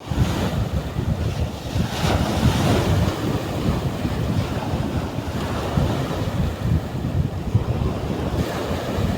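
Sea waves breaking and washing on a beach, with wind buffeting the microphone. A wave breaks more loudly about two seconds in.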